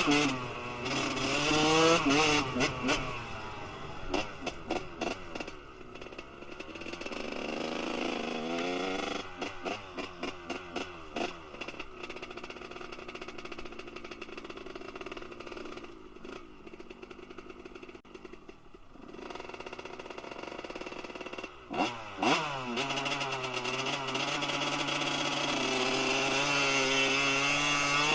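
Kawasaki KX 125's single-cylinder two-stroke engine breathing through a Pro Circuit R-304 shorty silencer, revving up and dropping back repeatedly with bursts of crackling on the way down. It settles into a quieter, low-speed stretch in the middle, then revs sharply once and climbs steadily again near the end.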